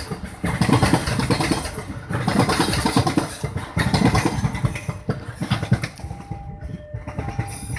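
Freight train's container flat wagons rolling past close by: steel wheels clattering and rumbling on the rails, with repeated knocks. The noise dies away over the second half as the end of the train goes by.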